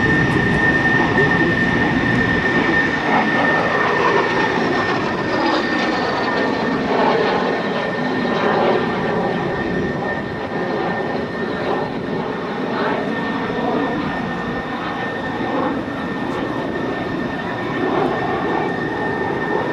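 Aero L-39 Albatros jet trainer's single turbofan engine flying past in an aerobatic display: a steady jet roar with a high whine, the pitch of the roar sweeping up and down as the aircraft moves across the sky.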